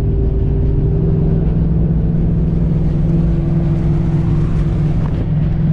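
Car engine running steadily with a deep, even exhaust note.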